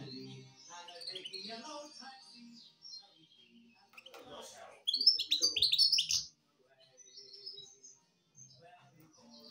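Small songbird chirping and singing in high notes, loudest in a quick run of chirps about five seconds in.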